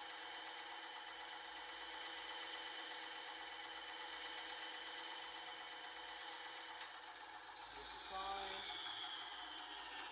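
A power tool's motor running steadily with a high whine. About seven seconds in it is switched off, and the whine falls in pitch as it winds down. A brief voice-like sound comes about a second after the switch-off.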